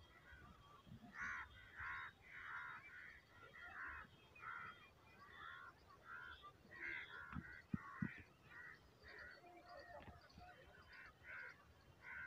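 A bird calling over and over outdoors, short calls about two a second that go on for roughly ten seconds, with a few low thumps near the middle.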